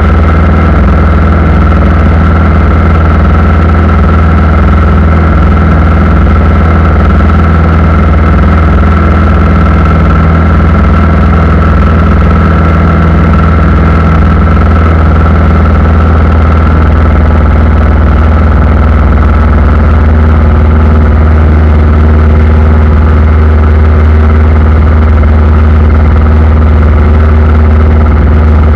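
Aircraft engines running with a steady drone and a constant high whine. The low part of the drone shifts slightly about halfway through.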